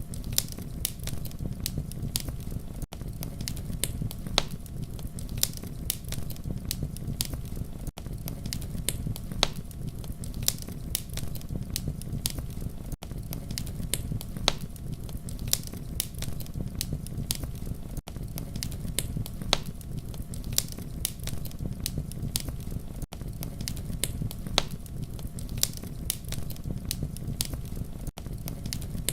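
Campfire burning: a steady low rumble of flames with frequent sharp wood crackles and pops, several a second. A brief dip in level comes about every five seconds.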